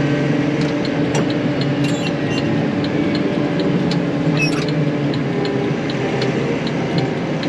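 Vehicle engine running steadily under way, with a faint, regular light ticking over it and a couple of brief high chirps about two and four and a half seconds in.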